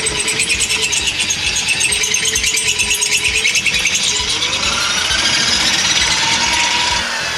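Electric drill running under load, rattling and changing speed as it enlarges the bolt holes in a stainless steel exhaust header's flange so that it will fit.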